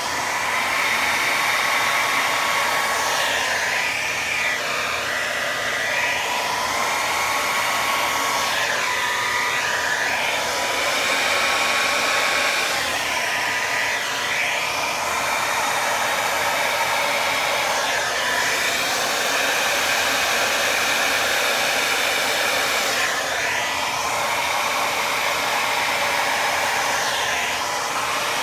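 Handheld hair dryer running continuously, blowing poured acrylic paint across a canvas. A steady rush with a faint whine, whose tone sways every few seconds as the dryer is swept back and forth.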